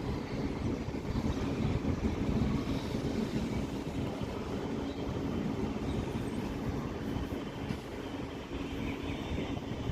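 Indian Railways superfast passenger train at a station platform, with a steady rumble.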